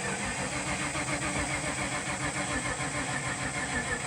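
Ford mud truck's engine cranking over on the starter motor with an even, rhythmic churn, turning over without firing.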